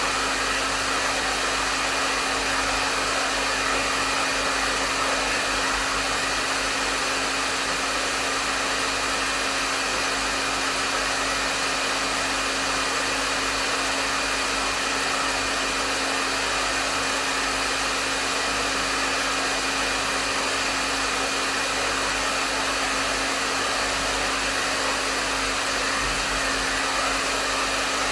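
Hair dryer running steadily at medium setting: an even rush of blown air over a constant motor hum, with no change in pitch or level.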